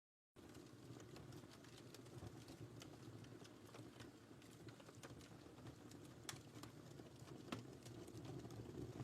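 Wood fire in a fireplace crackling softly, with scattered sharp pops over a steady low hiss. It begins after a brief gap of dead silence.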